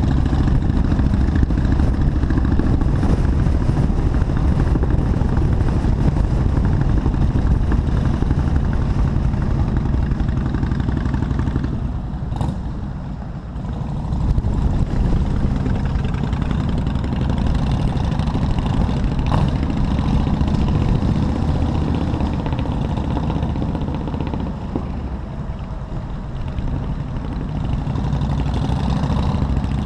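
Motorcycle engine running on the move, with a steady low rumble of engine and road noise. It eases off briefly about twelve seconds in and again near twenty-five seconds.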